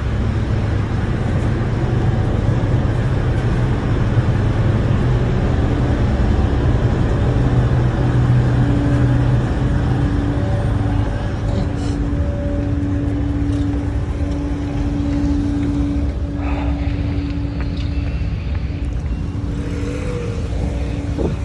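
Engines running on a car ferry: a steady rumble with a droning hum held on one pitch.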